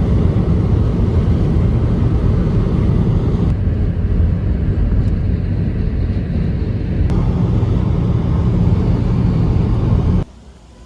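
Steady, loud, low rumble of a moving vehicle, cutting off abruptly near the end.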